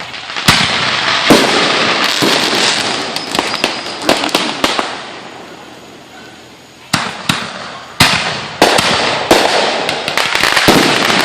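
Fireworks going off: a run of sharp bangs, each followed by dense crackling that fades away around the middle. Then a second run of bangs and crackle.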